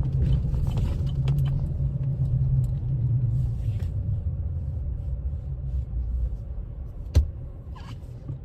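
Lifted Chevrolet Silverado pickup driving, heard from inside the cab: a low engine and road rumble that grows quieter through the second half. A single sharp knock sounds about seven seconds in.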